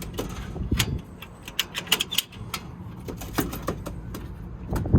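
Irregular clicks, knocks and rattles from the pigeon carrier as the two reluctant pigeons are coaxed to leave it, with a heavier thump near the end, over a low steady rumble.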